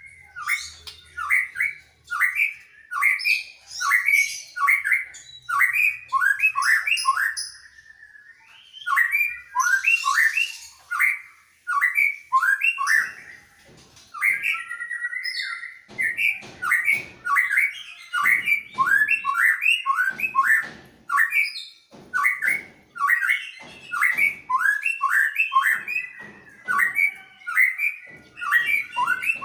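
A greater green leafbird and a white-rumped shama singing back and forth in loud, rapid, repeated song phrases, with a few sharp clicky notes.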